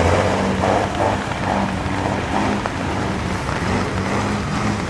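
Truck engine running steadily, a constant low hum with a noisy rumble over it.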